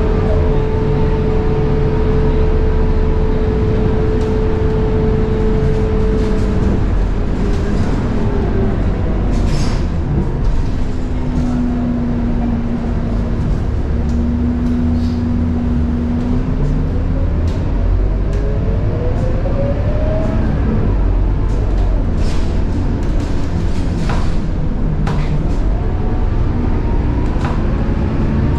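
Scania K230UB bus's 9.3-litre DC9 diesel running under load with the high-pitched whine of its ZF Ecomat 6HP504C automatic gearbox. The whine holds steady, drops away about seven seconds in, sits lower in the middle, then rises in pitch as the bus gathers speed. Sharp clicks and rattles come through now and then.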